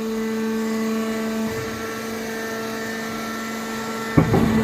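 Hydraulic power unit of a scrap metal baler running with a steady hum, then a sudden loud clank about four seconds in.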